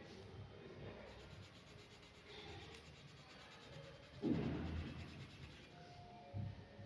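Pen strokes scratching and rubbing on paper during drawing. A louder rub or knock comes about four seconds in, and a shorter one near the end.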